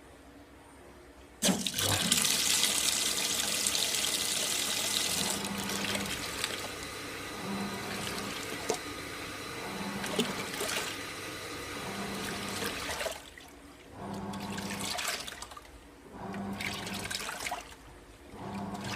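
AQUA MCW-C50 coin-operated top-load washing machine running: water suddenly starts rushing in the tub about a second and a half in, with the motor humming in short pulses about every two seconds as the pulsator turns back and forth.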